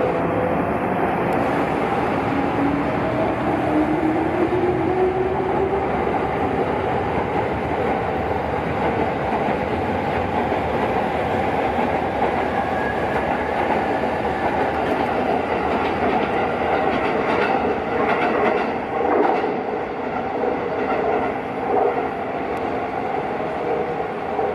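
Electric train running at a station platform, a motor whine rising in pitch over the first six seconds, with a few knocks from the wheels later on.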